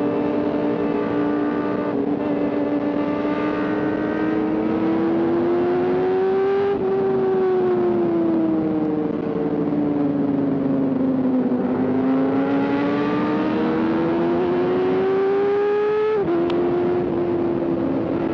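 Sport motorcycle engine running under way. The revs climb steadily and drop suddenly about seven seconds in, then sink for several seconds. They climb again to another sudden drop near the end.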